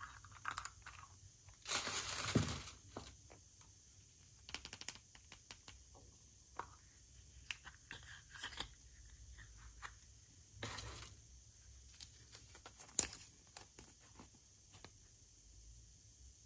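Wrapping being torn and crinkled by hand in short bursts, with scattered clicks; the longest tearing is about two seconds in and again about eleven seconds in, and there is a sharp click about thirteen seconds in.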